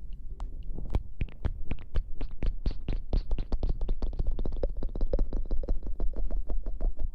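Close-miked ASMR scratching and rustling right against the microphone: a fast run of sharp crackly clicks, several a second, over a low rumble.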